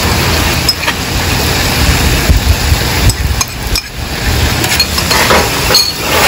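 Food sizzling on a flat-top griddle, with scattered clinks and scrapes as a spoon works eggs out of a bowl and a metal spatula moves across the griddle.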